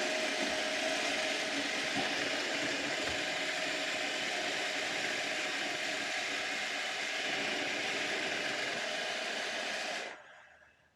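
iRobot Roomba 780 robot vacuum running as it heads back to its dock: a steady whir of the vacuum motor and brushes with a faint steady tone in it. It winds down and stops about ten seconds in.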